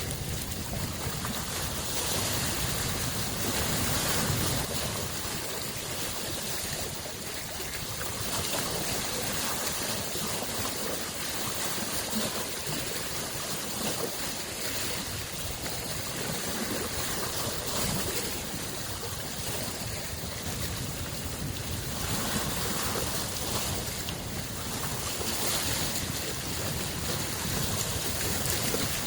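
Small lake waves washing against the shore in a continuous wash that swells every few seconds, over a low rumble.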